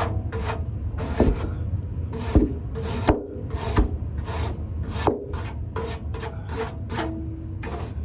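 A brush scrubbing along the aluminium condenser fins of a van's roof air conditioner, in quick repeated up-and-down strokes about two to three a second, clearing packed dirt and dog hair from the fins. A steady low hum runs underneath.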